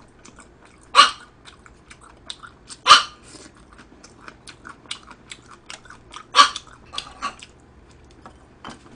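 Close-up chewing and lip-smacking of spicy stir-fried pork intestines, with many small wet clicks throughout and three louder short mouth sounds: about a second in, near three seconds and past six seconds.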